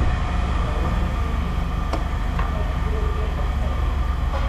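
Steady low rumble of a running engine or machine, with a few short sharp clicks about two seconds in, soon after, and near the end, as of scrap pieces being handled.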